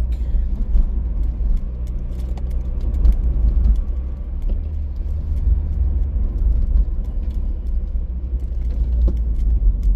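Car on the road: a steady low rumble of road and engine noise heard from inside the cabin, with scattered faint ticks.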